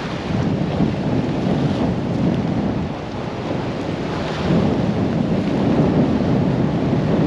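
Gale-force storm wind buffeting the microphone with driving rain: a steady, low, rumbling rush of noise that grows a little louder about four and a half seconds in.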